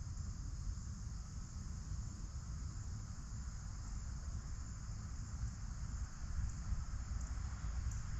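Steady high-pitched chorus of crickets over a low rumble of wind on the microphone.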